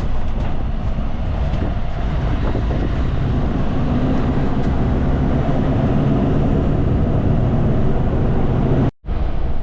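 Cummins diesel engine of a Kenworth K200 cabover road train running steadily under way, heard from inside the cab as a continuous low drone with road noise. The sound drops out abruptly for a split second near the end.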